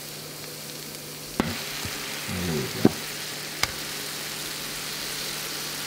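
Squid, red bell pepper and onion frying in a cast iron skillet, a steady sizzle that gets louder about a second and a half in as honey and butter go into the hot pan. A few sharp clicks cut through it.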